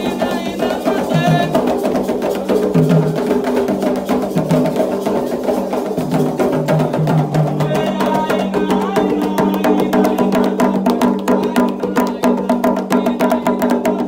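Candomblé ritual music: atabaque hand drums and a struck agogô bell keeping a fast, steady pattern under voices singing a chant.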